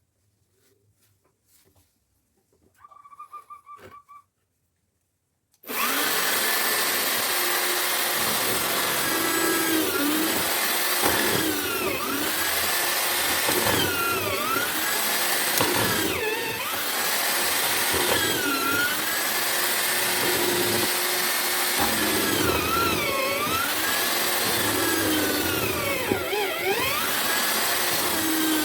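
A homemade drill-powered mortiser is switched on about six seconds in and runs loudly. Its motor pitch dips and recovers about every two seconds as the bit is plunged into the wood and lifted out to cut a mortise.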